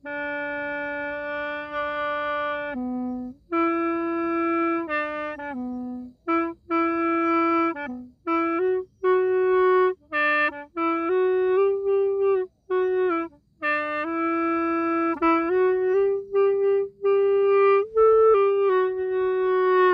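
Khlui, a Thai-Lao bamboo flute, played solo: a slow melody of held notes, mostly in a middle register, broken by short pauses between phrases.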